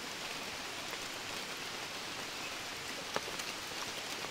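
Steady rain falling: an even hiss with scattered small ticks, and one sharper tick about three seconds in.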